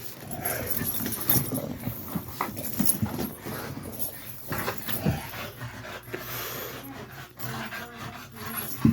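Two dogs play-fighting: dog vocal sounds mixed with irregular scuffling knocks, and one sharper knock near the end.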